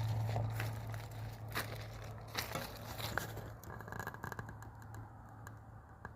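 Faint, steady low drone of a distant approaching train's diesel locomotives, with scattered crackling and rustling close to the microphone that dies down about halfway through.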